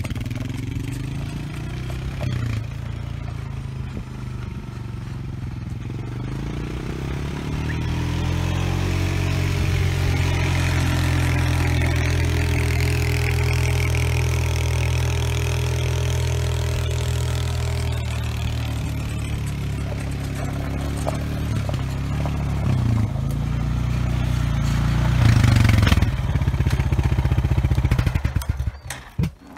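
ATV (four-wheeler) engine running under load as it pulls a land planer through ditch dirt. The pitch climbs about eight seconds in, holds steady, swells again near the end, then drops away suddenly.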